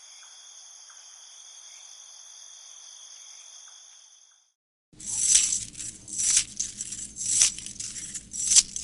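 Two horror sound effects in turn. First, a shrill high-pitched drone of several steady tones over a faint hiss, fading out about four seconds in. Then, after a short silence, a run of loud, irregular harsh bursts over a low rumble.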